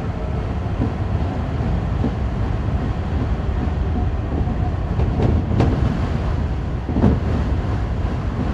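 Tokyo Metro Fukutoshin Line F Liner express train running at speed, heard from inside the car: a steady low rumble with a few sharp wheel clacks over rail joints about five and seven seconds in.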